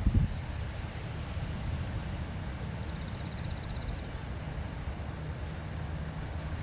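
Shallow river babbling steadily over stones, with wind buffeting the microphone in a low rumble that gusts at the start. A faint, high, quick trill sounds briefly about three seconds in.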